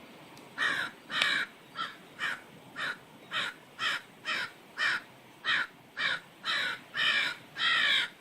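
A crow cawing over and over, about two caws a second, starting about half a second in; the last few caws are drawn out longer.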